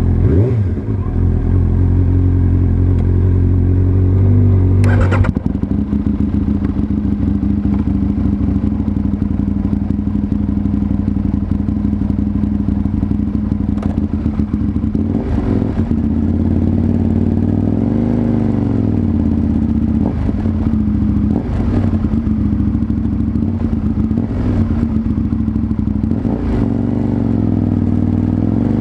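Aprilia RSV Mille's V-twin engine running under way, heard from a microphone under the seat. There is a sharp clack about five seconds in, after which the engine note drops, and a few small rises and falls in revs later on.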